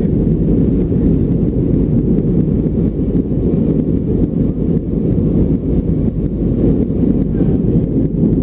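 Steady low roar of an airliner cabin, the engine and airflow noise heard from inside the plane.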